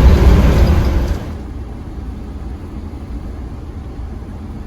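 Motor home driving, with road and engine noise heard inside the cab: a loud rushing rumble for about the first second, then a much quieter low rumble.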